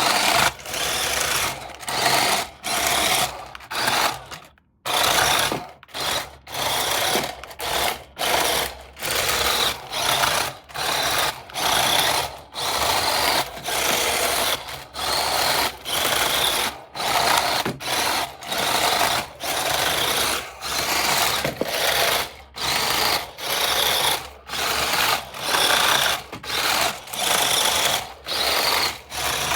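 Small electric motor of a toy RC car whirring in short, repeated bursts of about a second each, with brief pauses between them.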